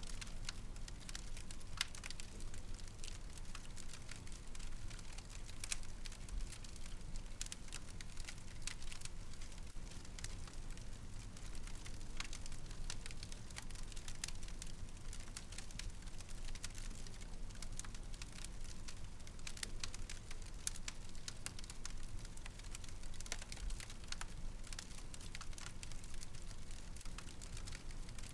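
Wood fire in a fireplace crackling, with frequent small sharp pops at irregular intervals over a steady low rumble of the flames.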